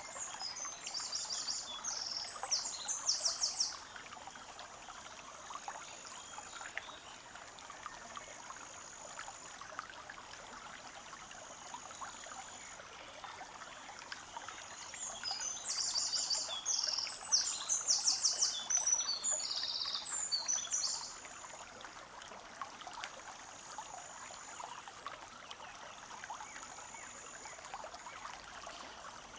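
Forest stream trickling and gurgling steadily, with a small songbird singing two spells of fast, high, trilled phrases: one at the start and another about fifteen seconds in.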